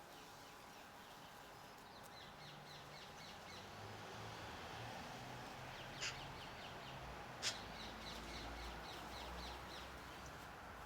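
Garden birds calling in runs of short, quick down-slurred notes, several a second. Two sharp clicks stand out about six and seven and a half seconds in, over a faint low hum.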